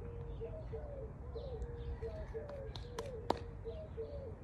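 Birds calling: a low call repeated about twice a second, with faint high chirps over it, and two sharp clicks about three seconds in.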